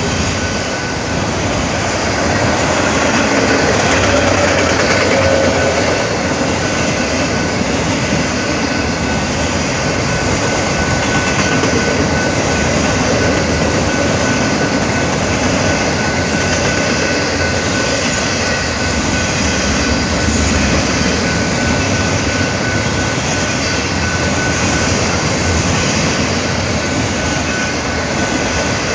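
Train cars rolling past close by: a steady loud rumble and rattle of wheels on rail that keeps up without a break, with a thin steady high whine coming in about a third of the way through.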